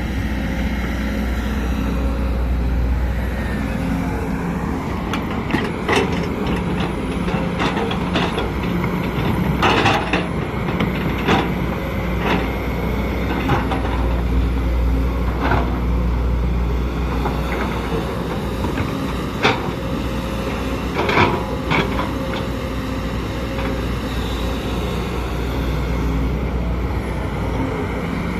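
Sumitomo SH210LC crawler excavator's diesel engine running steadily under load, with irregular sharp metallic clanks and knocks every second or two.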